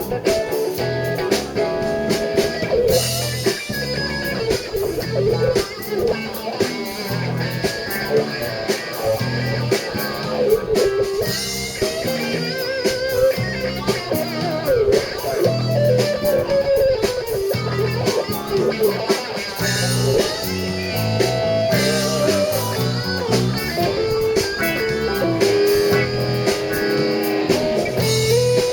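Live blues-rock band playing an instrumental break: electric guitar solo with bending notes over bass and drums.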